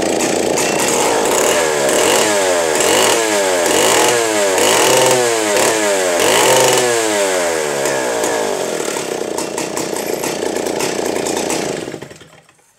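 Stihl 090 chainsaw's two-stroke engine running, blipped up and down about seven times in quick succession, then settling to a steadier run before stopping near the end.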